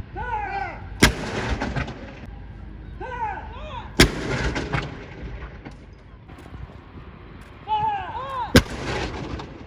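Saluting guns firing blank rounds in a gun salute: three sharp bangs, spaced about three seconds and then about four and a half seconds apart, each followed by a rolling echo.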